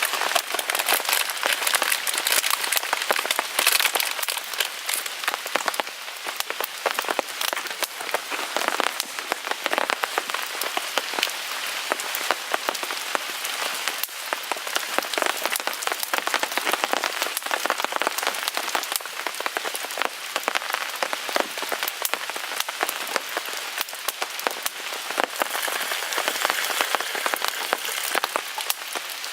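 Steady rain pattering on a tarp overhead, a dense crackle of drops, with a small wood fire crackling in a portable folding grill.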